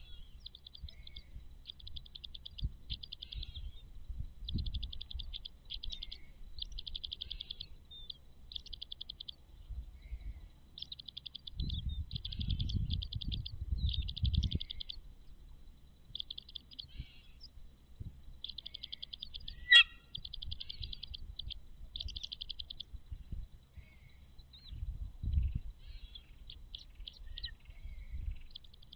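Birds calling in short, rapid trills, one burst after another, with low rumbling noise underneath and a single sharp click about twenty seconds in.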